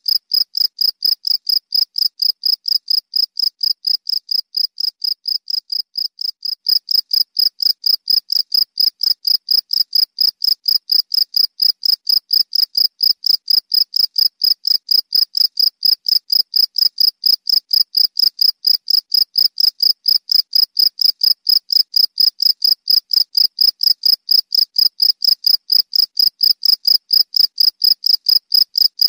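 A cricket chirping in a steady, even rhythm of about four high-pitched chirps a second. It gets a step louder about seven seconds in.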